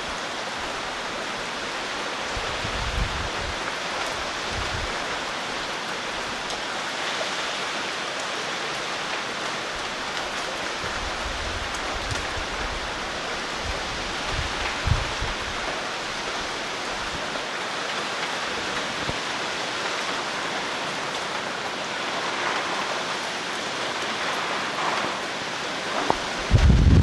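Heavy typhoon rain falling steadily in a dense hiss. A few brief wind gusts buffet the microphone as low rumbles, with a stronger gust near the end.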